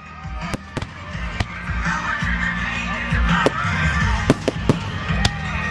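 Fireworks going off, with about eight sharp bangs over a display's background music with a heavy bass line.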